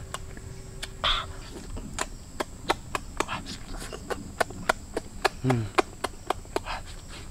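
A person chewing cooked duck egg with loud open-mouthed lip-smacking, about three to four smacks a second. A short "mm" hum about five and a half seconds in.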